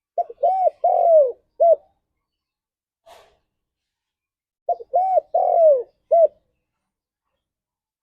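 Spotted dove cooing: two song phrases about four and a half seconds apart, each a quick short note, then arched coos that rise and fall, the third the longest, and a short closing coo.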